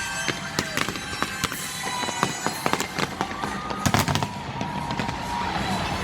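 Fireworks display: a rapid, irregular run of bangs and crackling pops, with a few whistling shells gliding in pitch.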